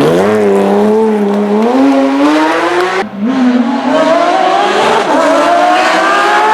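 Porsche GT3 rally car's flat-six engine under hard acceleration, its pitch climbing steadily. About three seconds in, a quick upshift drops the pitch with a brief dip in level, then it climbs again.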